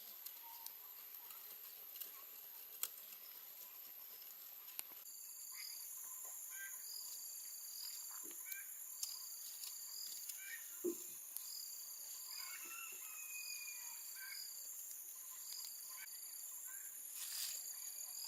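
Insects chirping: a steady high-pitched buzz, joined about five seconds in by a short chirp repeating roughly once a second, with a few faint taps and knocks.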